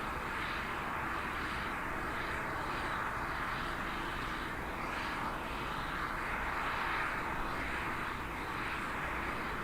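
Steady rushing jet aircraft noise, even and unbroken, strongest in the middle range.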